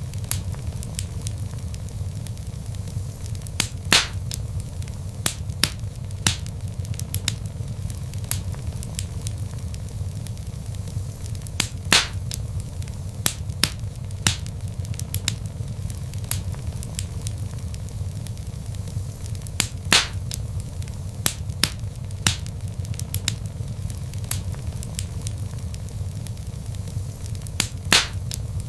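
Log fire crackling: frequent sharp pops and snaps over a steady low rumble of flames, with a louder pop about every eight seconds.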